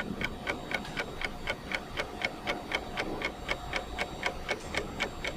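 Clock ticking steadily, about four ticks a second: a ticking-timer sound effect marking thinking time for a riddle.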